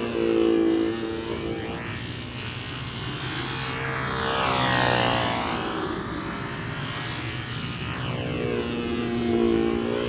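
Small model-aircraft engine buzzing steadily as a control-line model plane circles on its lines, swelling in loudness and wavering in pitch each time it passes, about every four and a half seconds.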